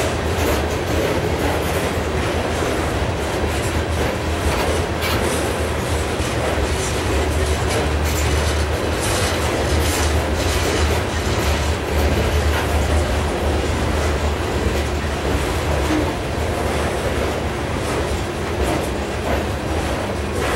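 Loaded limestone hopper cars of a freight train rolling past, with a steady low rumble. The steel wheels click irregularly over the rail joints.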